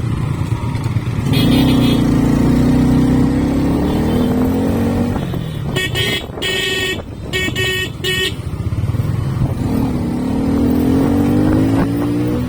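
Motorcycle engine running at riding speed, its pitch rising and falling with the throttle. A horn sounds in several short blasts around the middle.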